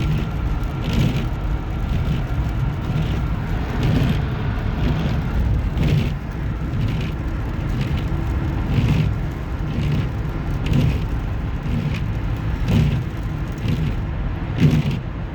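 Road noise inside a moving car: a steady low rumble of engine and tyres, with a short regular tick or thump about once a second.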